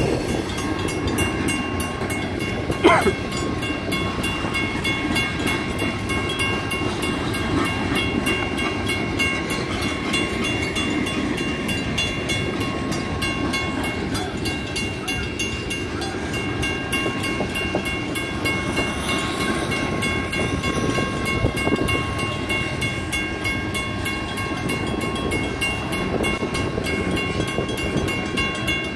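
Freight cars of a manifest train rolling past a grade crossing, their wheels rumbling and clattering on the rails, while the crossing's mechanical signal bells ring on steadily. A single sharp clank stands out about three seconds in.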